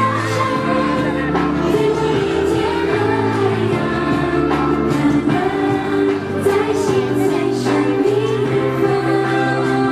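Young kindergarten children singing together in a chorus, with an instrumental accompaniment and a steady bass line.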